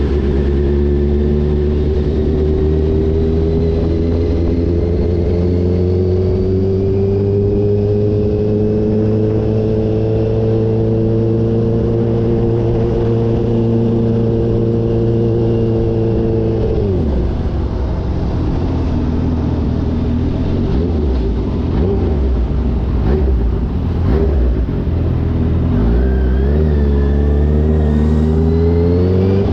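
Kawasaki H2 motorcycle engine under way, its revs climbing slowly for about sixteen seconds. The revs then fall sharply, run low and uneven for several seconds, and climb quickly again near the end.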